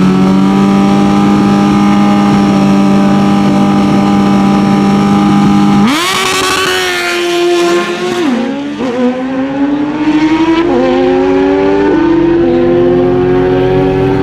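Drag-racing motorcycle engines held at steady high revs on the starting line, then launching about six seconds in. After the launch the revs climb and drop again and again as the bikes upshift through the gears, accelerating hard down the track.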